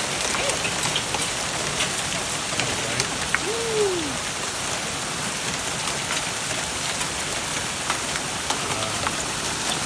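Hailstones pelting down in a dense, steady patter, with many sharp clicks of individual stones striking. A brief rising-and-falling tone sounds about three and a half seconds in.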